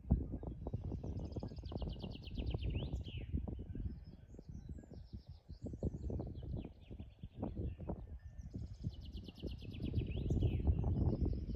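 A songbird singing a fast trilled phrase that ends in a quick flourish, twice, with short chirps in between. Under it runs an irregular low rumbling noise.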